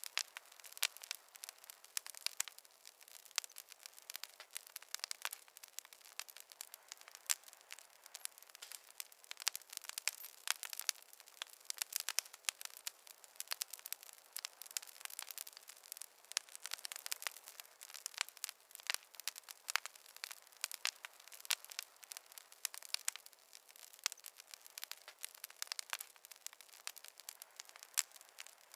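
Wood fire crackling in a fireplace: a dense, irregular patter of sharp pops and snaps over a faint hiss, with no low rumble.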